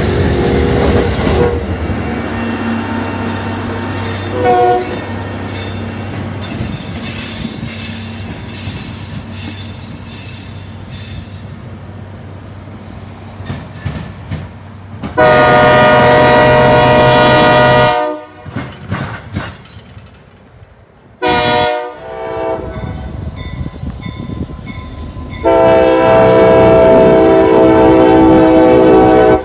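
Amtrak GE P42DC diesel locomotive and passenger cars rumbling past on the rails. A train horn then blows for about three seconds, followed by a brief blast, and a long horn blast sounds near the end as a CSX diesel freight locomotive passes.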